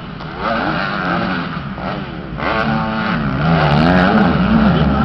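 Several 450cc four-stroke motocross bikes racing, their engines revving up and dropping back through gear changes, with pitches rising and falling and overlapping as the bikes pass. The sound gets louder as more bikes come close.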